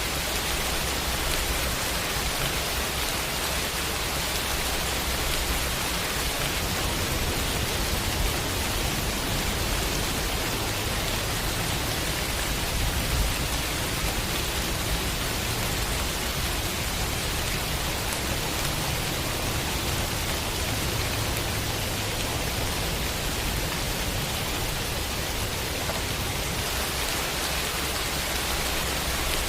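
Heavy rain falling steadily, a dense, even hiss, with a low rumble underneath that swells for a stretch in the middle.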